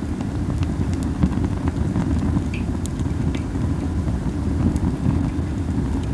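Campfire of burning Japanese spindle (masaki) wood: a steady low rumble of wind buffeting the microphone, with a few sparse crackles and pops from the fire scattered through it.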